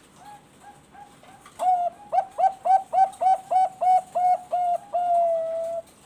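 Perkutut bangkok (Thai-bred zebra dove) singing its cooing song: a few soft opening notes, then about ten loud clipped coos at three to four a second, ending in one long held note.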